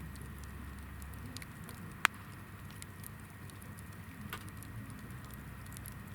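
Hinoki (Japanese cypress) firewood burning in a campfire, crackling with scattered small pops and one sharp, loud pop about two seconds in.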